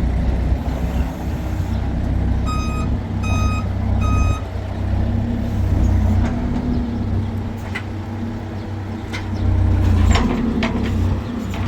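A motor vehicle's engine running with a steady low rumble. About two and a half seconds in come three short, evenly spaced electronic beeps. A few sharp clicks follow near the end.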